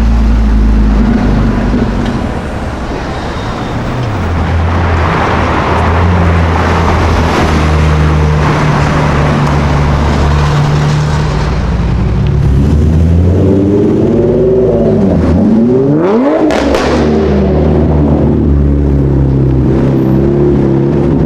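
Car engines in street traffic: a steady low engine drone whose pitch shifts in steps, and about two-thirds of the way through an engine's pitch sweeps down and then climbs sharply in a brief loud burst.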